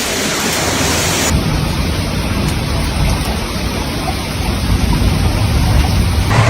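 Loud, steady rushing noise with an abrupt change in its sound about a second in. Near the end it gives way to a low, steady hum.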